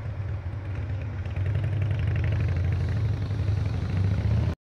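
A vehicle engine running steadily with a low rumble, getting louder about a second and a half in, then cut off abruptly near the end.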